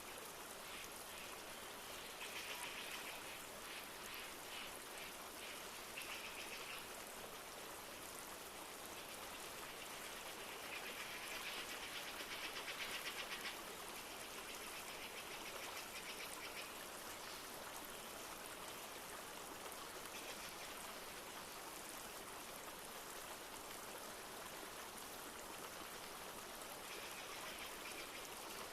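River water flowing steadily, with several short bursts of rapid trilling bird calls, the longest one around the middle.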